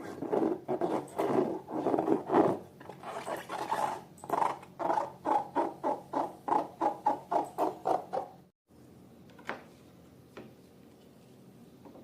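Slime being squeezed and kneaded by hand, giving wet squelches in a quick rhythm of about three a second. It cuts off suddenly about eight and a half seconds in, leaving only a couple of faint clicks.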